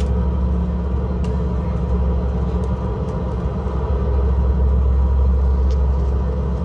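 Steady low rumble of a train, with a few faint clicks, growing a little louder about two-thirds of the way through.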